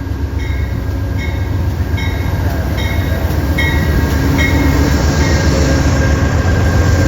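Amtrak passenger train running past, a heavy rumble of wheels on rail that grows louder toward the end. Over it, a short high ping repeats about every three-quarters of a second and stops about five seconds in.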